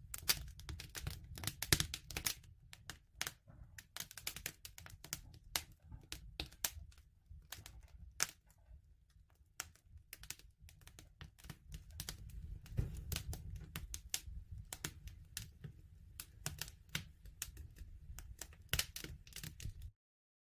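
Wood fire crackling: irregular sharp pops and snaps over a low rumble. The sound cuts off suddenly near the end.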